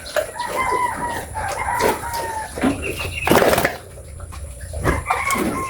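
Rooster crowing: a long, slightly falling call early on, with a second call starting near the end. A short, harsh noisy burst comes about three and a half seconds in.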